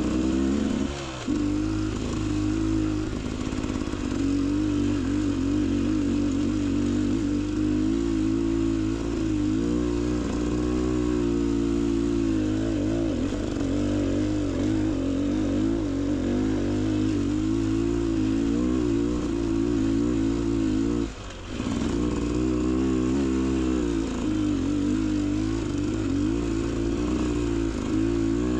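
Beta Xtrainer 300 two-stroke dirt bike engine running under a rider on trail, its pitch wavering up and down with the throttle. The sound drops out briefly about a second in and again about two-thirds of the way through.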